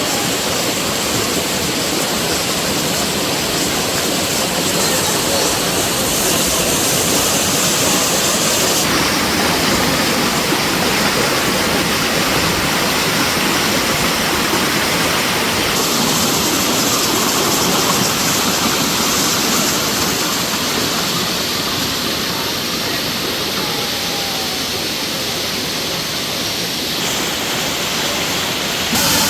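Soochipara waterfall, water pouring and crashing onto rocks in a loud, steady roar. Its tone shifts abruptly a few times.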